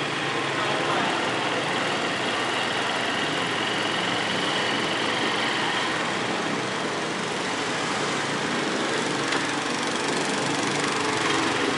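Motorcycle under way: the engine running steadily under a constant rush of wind noise.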